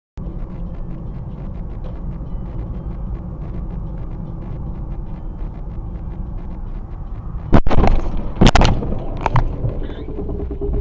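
Steady vehicle and road rumble, then about three-quarters of the way through a sudden loud crash: a collision, with several hard impacts in quick succession.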